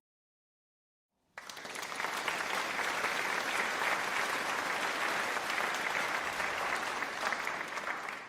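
Applause sound effect: a crowd clapping steadily, starting abruptly about a second and a half in and fading out at the end.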